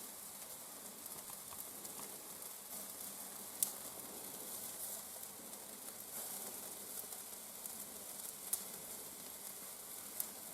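Shashlik on skewers cooking over a wood fire in a fireplace: a steady sizzling hiss with a few sharp pops, the clearest about three and a half and eight and a half seconds in.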